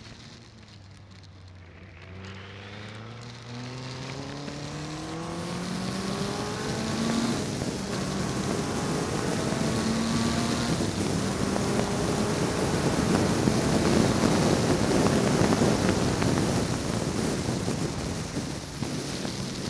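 Ford Zetec four-cylinder engine of a Westfield open-cockpit sports car accelerating hard from low revs, its note rising steadily and dropping back twice at upshifts. Wind rush on the microphone grows loud at speed, then eases near the end as the car lifts off.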